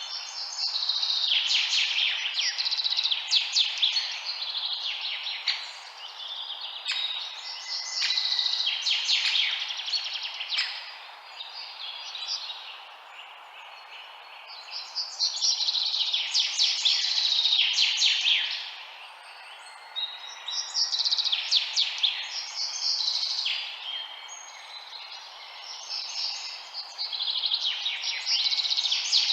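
Songbirds chirping and singing in busy bursts of rapid, high notes that come every few seconds with short lulls between, over a steady background hiss.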